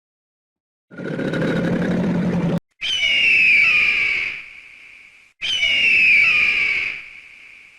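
A farm animal calling: loud high-pitched calls, each about a second and a half long and falling slightly in pitch, repeated about every two and a half seconds. They follow a short, rougher, lower sound about a second in.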